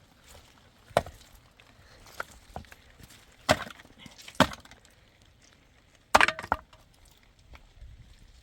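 Sharp wooden knocks and cracks, as of wood being chopped or broken, several blows at irregular intervals, with the loudest a quick double blow about six seconds in.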